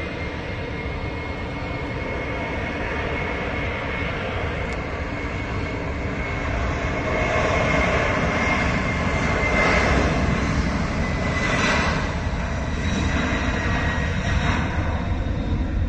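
Boeing 767 freighter's twin jet engines at takeoff thrust on the runway: a steady high whine over a deep rumble that swells, loudest a little past the middle.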